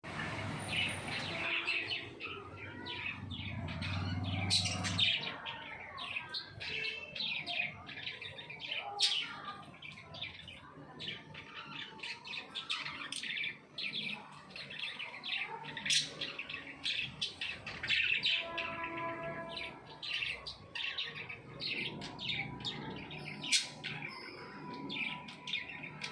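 Lovebirds chirping, a continual stream of short, sharp, high-pitched chirps.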